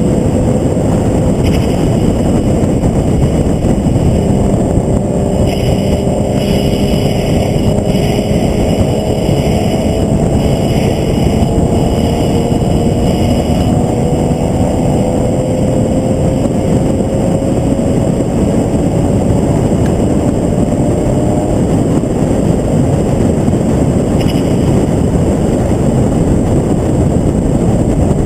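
Onboard sound of a vehicle at speed on a race track: loud, steady wind and road rush over the engine, whose note climbs slowly for long stretches as it pulls through a high gear.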